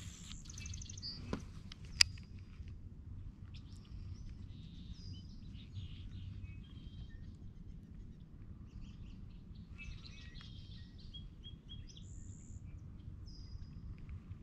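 Small birds chirping and calling on and off over a low steady background rumble, with one sharp click about two seconds in.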